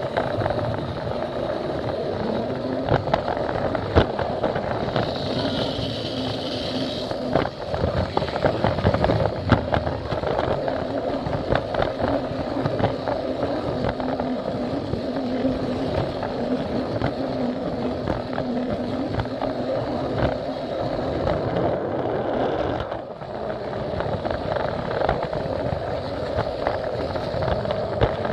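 Plarail toy train running along plastic track, its small battery motor humming steadily and its wheels clicking over the rail joints, heard from a camera riding on the train.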